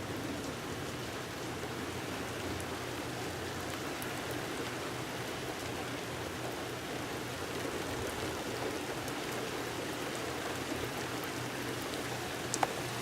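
Steady rain falling, with scattered single drops ticking through it and one sharper drip near the end.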